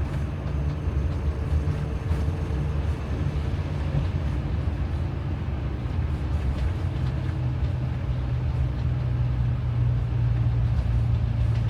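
Steady low engine and road rumble inside the cabin of a motorhome being driven, with a low hum that grows stronger about seven seconds in.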